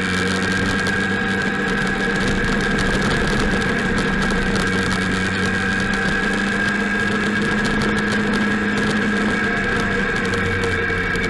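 Motorcycle engine running steadily at low speed, heard up close from the bike itself, with a steady high whine over the engine note.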